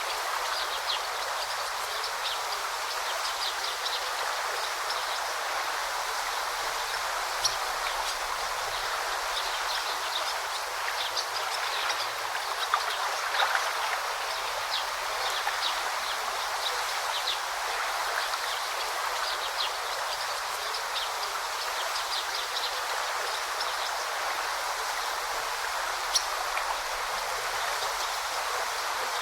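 Forest river flowing steadily, a continuous rushing of water, with small birds chirping in short high notes throughout and a few sharp ticks now and then.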